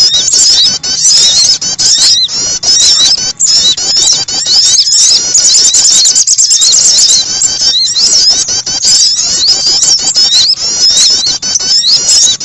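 Bird-lure recording of small songbirds calling: a dense, loud stream of rapid, high chirps and twitters, many overlapping, with only brief breaks.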